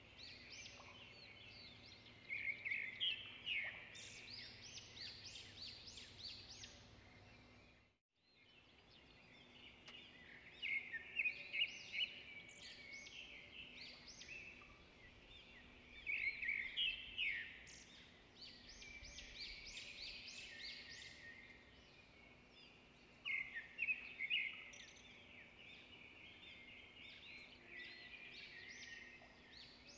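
Small birds chirping and singing in clusters of quick, high trilled notes. The sound drops out completely for a moment about eight seconds in.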